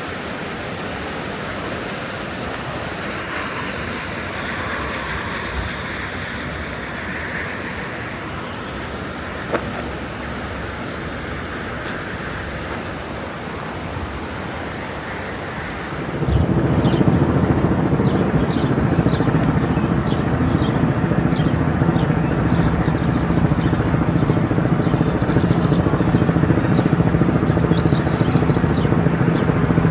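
Steady rush of water, then about halfway through a louder, steady low drone with several held low tones comes in suddenly: a helicopter running overhead.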